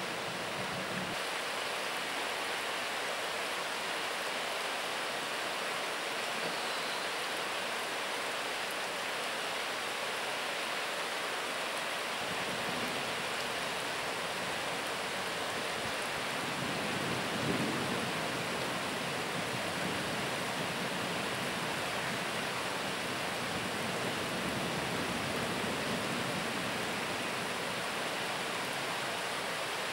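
Heavy rain falling steadily during a thunderstorm. A low rumble of thunder builds in the second half, swelling briefly a little past the middle.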